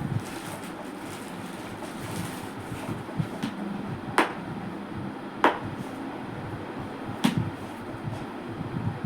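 Rustling and handling of a jewellery box and its packaging, with three sharp clicks or taps spread a second or two apart.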